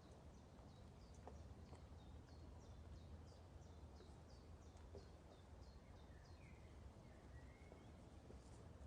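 Faint bird chirping: a run of short, high, falling chirps, two or three a second, that dies away after about five seconds, then a couple of lower whistles, over a quiet low hum.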